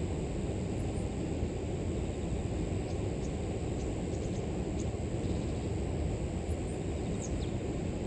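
River water rushing steadily, with a constant high insect drone over it and a few short bird chirps, one near the end sliding downward.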